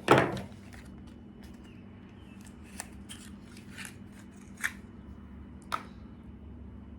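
Small hand-handling noises: a louder rustle or knock at the start, then a few sharp light clicks, as a spark plug and small parts are handled.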